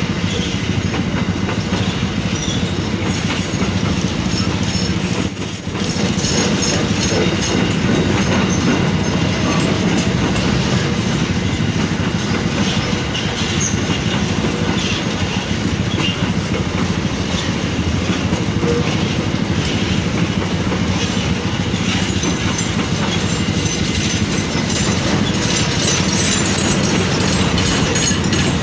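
Freight train of tarp-covered wagons rolling past, steel wheels running steadily along the rails in a continuous rumble, with a brief dip in the noise about five seconds in.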